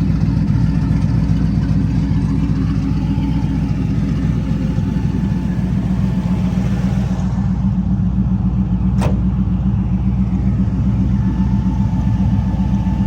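Twin-turbo LS3 V8 in a 1970 Chevelle restomod running steadily at a low, even speed, with no revving. A single sharp click comes about nine seconds in.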